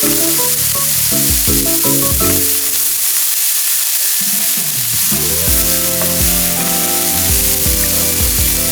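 Steak sizzling in a hot iron frying pan over a campfire: a steady frying hiss. Background music plays over it.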